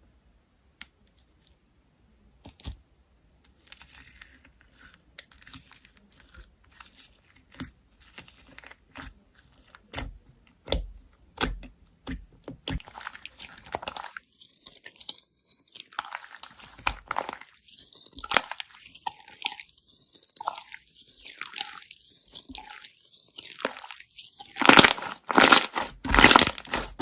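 Packaging being handled and crinkled: scattered taps and clicks at first, then steadier rustling, and loud crinkling near the end.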